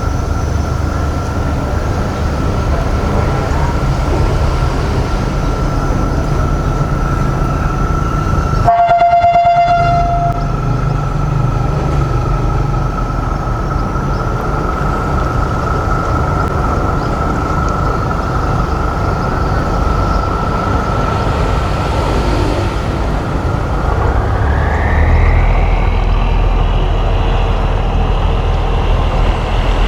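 A boat engine runs steadily with a low rumble and a thin high whine. A horn sounds once, for about a second and a half, about nine seconds in. Near the end the whine climbs in pitch and the rumble grows louder.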